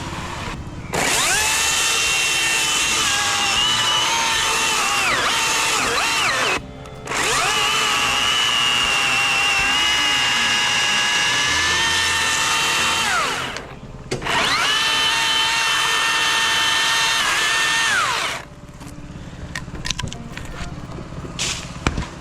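A chainsaw cutting through an oak trunk in three long runs at full speed, each revving up at the start and winding down at the end, with short pauses between. After the third run it goes quieter, with a few sharp knocks near the end.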